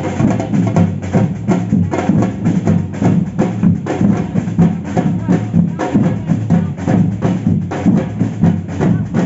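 Samba percussion band playing a steady, fast rhythm on drums and other hand percussion.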